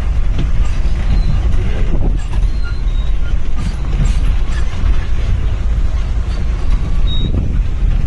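Safari vehicle driving along a forest track: a steady, loud low rumble of engine and road noise, with faint rattles.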